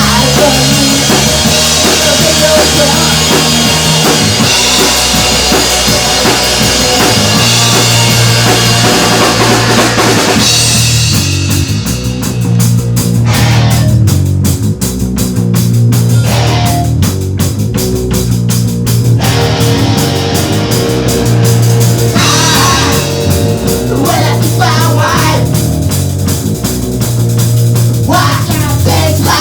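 Rock band playing with a full drum kit, bass and guitars. About ten seconds in, it drops back to bass and drums with steady cymbal ticks, then swells again briefly after about twenty-two seconds and near the end.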